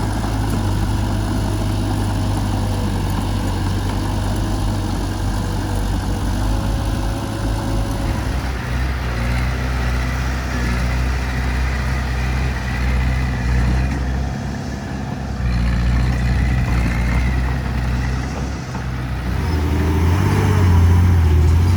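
Heavy diesel engine running steadily, its note shifting about eight seconds in and growing louder near the end.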